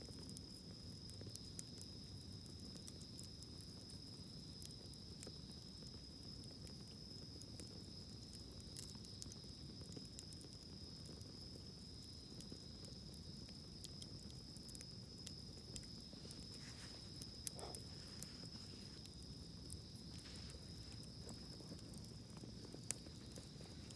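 Wood campfire crackling with scattered small pops and a few louder snaps, under a steady high-pitched insect trill.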